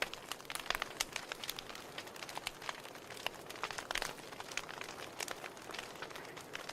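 Wood fire in a fireplace crackling: frequent irregular pops and snaps from the burning logs over a soft steady hiss of the flames.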